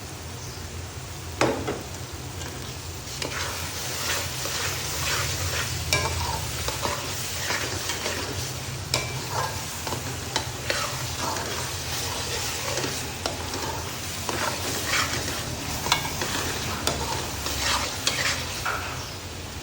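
Chicken frying in oil in a wok, sizzling steadily while a spoon stirs it with repeated irregular scrapes and clacks against the pan. A steady low hum runs underneath.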